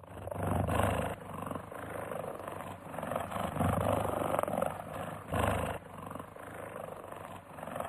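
An animal's rough, noisy calls, swelling several times, loudest about a second in, around four seconds in and at about five and a half seconds.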